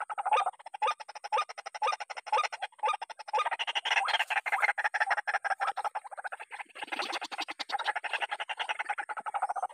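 White-breasted waterhen (ruak-ruak) calling, a fast unbroken run of repeated harsh calls.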